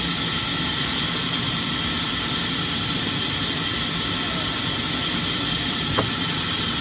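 Sawmill machinery running steadily, a constant mechanical drone with a high whine, and a single short knock near the end.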